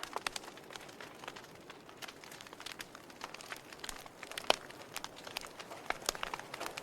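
Wood fire crackling in a fireplace: irregular sharp pops and snaps over a soft steady hiss, with one louder pop about four and a half seconds in.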